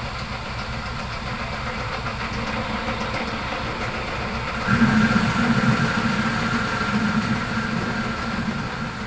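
Myford Super 7B metal lathe running slowly, a steady mechanical running with a light rattle. About halfway through it gets louder and a held high note comes in, as the tool works the part, then eases off near the end.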